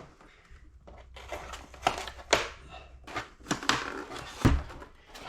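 Hands handling plastic and cardboard packaging: irregular clicks, rustles and light knocks, with one louder thump about four and a half seconds in.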